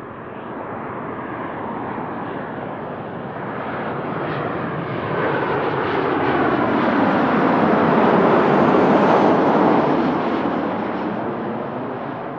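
Jet airliner engines passing close by, a steady roar that swells to its loudest about eight or nine seconds in and then begins to fade.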